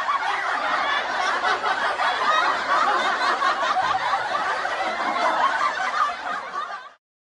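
Crowd laughing sound effect: many people laughing together at once, fading out about seven seconds in.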